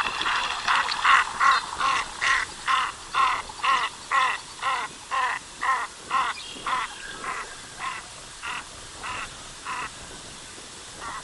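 Canvasback duck giving a long series of calls, about two a second, loud at first and growing fainter until they stop near the end.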